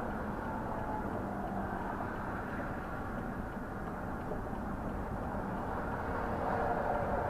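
Steady low rumble of road traffic and vehicle engines, swelling slightly near the end.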